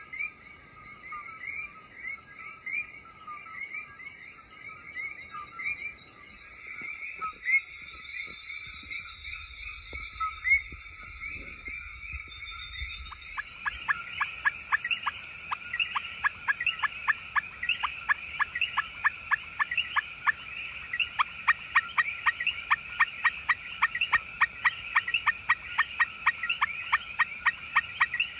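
A chorus of frogs calling with short repeated chirps; about halfway through it changes to a louder, quicker run of short rising chirps, about three or four a second.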